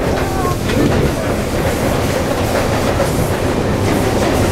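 Sotetsu 9000 series electric commuter train with Hitachi IGBT-VVVF inverter control running at speed, heard inside the passenger car: a steady rumble of wheels on rails.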